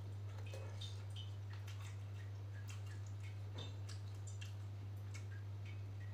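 Close-up mukbang eating sounds: irregular small wet clicks of chewing fish meatballs and rice, a few a second, with light spoon contact on the glass bowl, over a steady low hum.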